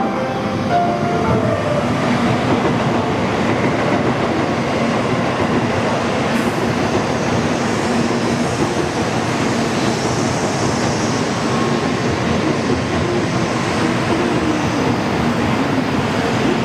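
Shinkansen train running along the station platform: a loud, steady rush of wheel and air noise.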